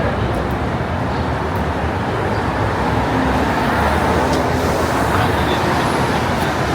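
Steady road traffic noise: the engines and tyres of vehicles on a busy city street.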